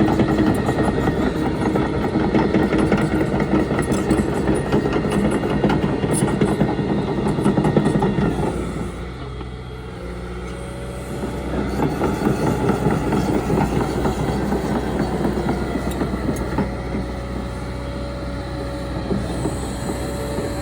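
Liebherr R926 Compact tracked excavator's diesel engine running under load. The noise eases off about eight and a half seconds in and builds again about three seconds later, with a faint steady whine in the quieter stretches.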